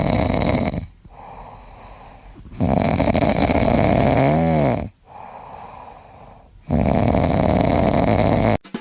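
Loud snoring from a sleeping pet: three long snores, about three to four seconds apart, with quieter breaths between them. A brief wavering squeak comes in the middle of the second snore.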